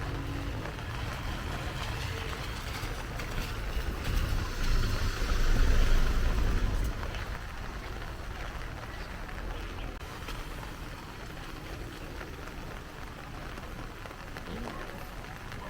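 Heavy rain falling, a steady hiss, with a low rumble swelling about four seconds in and fading near seven seconds.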